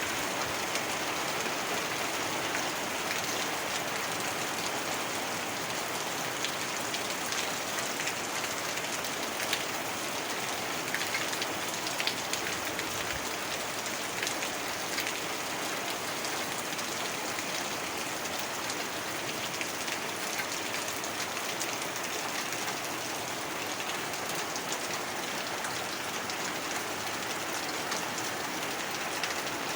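Steady heavy rain falling, with scattered drops ticking on a surface.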